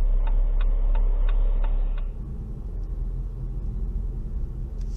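Steady low car rumble with an even ticking about three times a second. About two seconds in, the ticking stops and quieter road noise follows.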